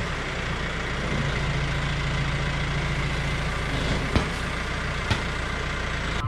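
Tractor engine running steadily, with two sharp clicks about four and five seconds in.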